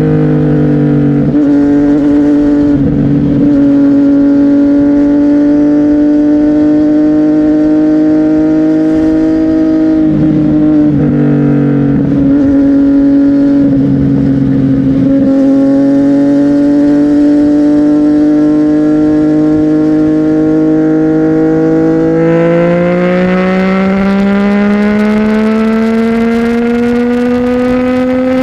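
CFMOTO 675NK's three-cylinder engine running through a Burnout titanium exhaust while riding, holding fairly steady revs that creep slowly upward. About three-quarters of the way through, the pitch climbs steadily as the bike accelerates.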